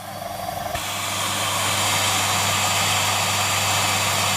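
Siemens Z6 Power 2500 W bagged cylinder vacuum cleaner running with the floor head off, air rushing into the open hose end. The rush swells within the first second or two, then holds steady over a low hum.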